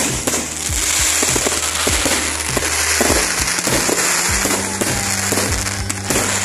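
Aerial fireworks bursting in quick succession, with a dense crackle of many small pops and bangs, over music with a deep, steady bass line.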